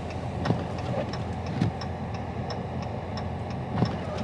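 Cabin sound of a Dodge Charger Scat Pack with its 6.4-litre V8 driving through snow: a steady low drone of engine and tyres, with a regular light ticking about three times a second, like a turn-signal relay, and a few soft thumps.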